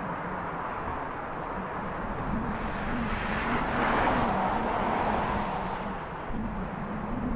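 Road traffic with one vehicle passing by: the noise swells to a peak about four seconds in and then fades.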